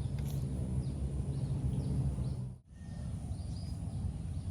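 Outdoor ambience: a steady low rumble with a few faint, short bird chirps. The sound drops out for an instant a little past halfway.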